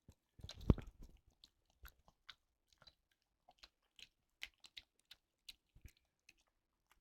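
A Pekingese dog, with one short loud burst about a second in, then irregular small clicks and smacks of chewing or mouthing.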